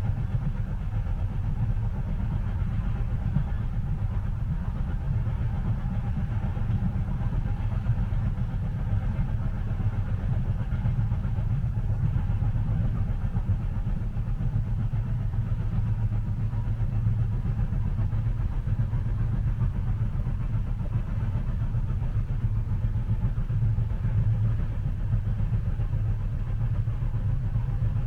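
Steady low rumble of a train running, heard from inside the passenger cabin.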